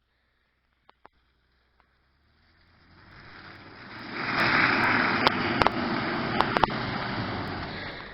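Rushing noise of the Acura MDX SH-AWD moving over off-road ground. It builds over about two seconds and then holds, with several sharp clicks and knocks in the middle.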